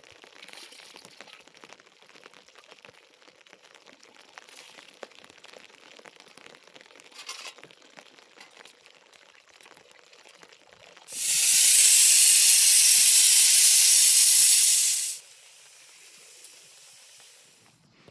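A loud, steady hiss like escaping steam starts abruptly about eleven seconds in, lasts about four seconds and cuts off sharply. Faint scattered small clicks come before it.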